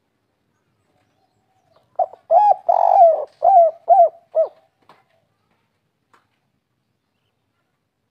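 Spotted dove (tekukur, derkuku) cooing one 'kuk 3' song phrase of about six short coo notes, starting about two seconds in, with a longer note in the middle.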